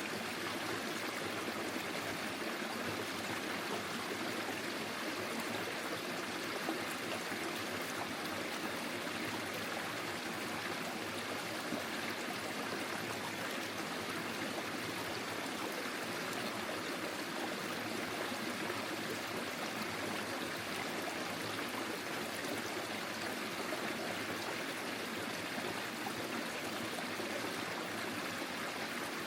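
Forest stream flowing, a steady babble and trickle of running water.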